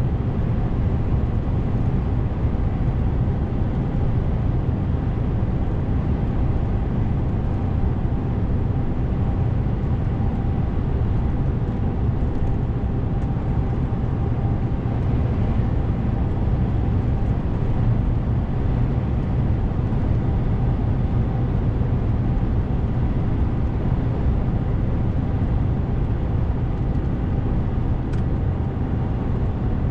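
DAF CF 450 truck driving along at a steady pace: a constant low engine and road rumble with no changes in speed or gear.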